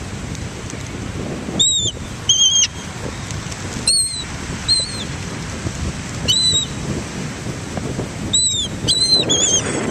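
Seagulls calling: about eight short, high, arched cries, some in quick pairs, over a steady rushing background of surf and wind.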